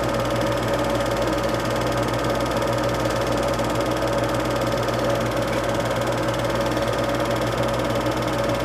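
Steady mechanical whirring with a fine, even clatter and a constant low hum, running at an unchanging level.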